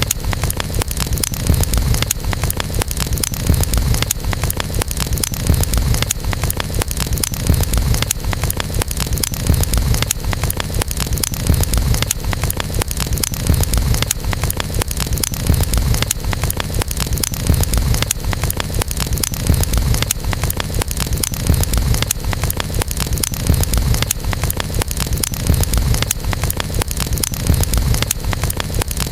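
Wood campfire crackling, with frequent small pops over a steady low rumble.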